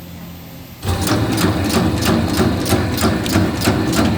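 Electric meatball-forming machine switched on about a second in, its motor running with a steady hum and rapid, regular clicking, about four clicks a second.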